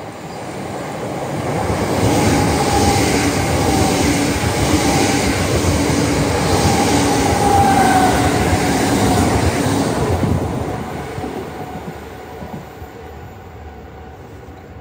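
A train passing through the station. Its running noise builds over about two seconds, stays loud for about eight with a few high steady tones over the rumble, then fades away.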